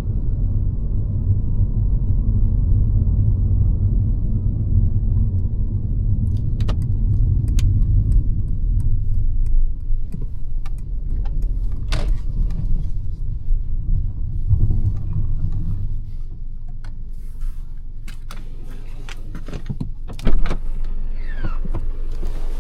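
Cabin of a Mercedes-Benz C-Class (W206) on the move: low road and engine rumble that eases after about 16 seconds. Scattered clicks and rattles run through the second half, with one sharp thump about 20 seconds in.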